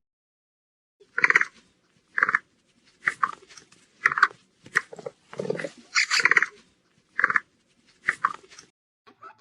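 A series of short animal calls, about nine in all, each brief and separated by pauses, coming irregularly.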